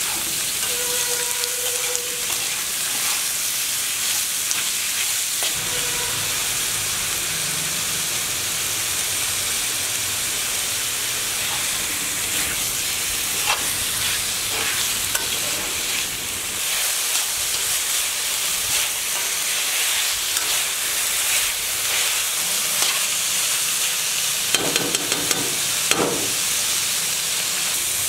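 Chicken pieces sizzling as they fry in a kadai, stirred with a steel spatula that scrapes against the pan. There are a few louder knocks near the end.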